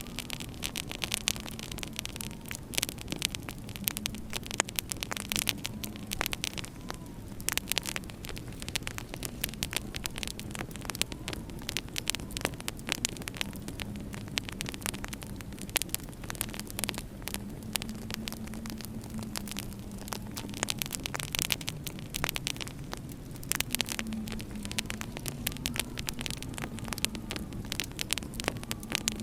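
Wood fire crackling in a fireplace, with many sharp pops and snaps over a steady hiss, and winter wind moaning underneath in a low wavering tone.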